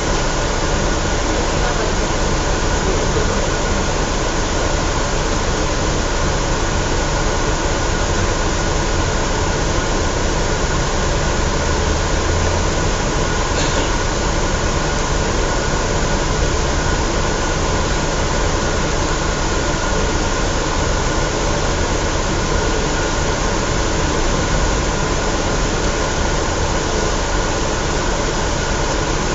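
Scania L113CRL single-decker bus with 11-litre six-cylinder engine running steadily on the move, heard from inside the cabin as a constant engine and road drone with a thin steady whine.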